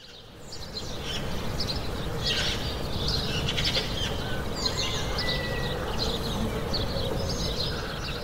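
Birds chirping and calling over a low, steady background rumble, fading in over the first second or so.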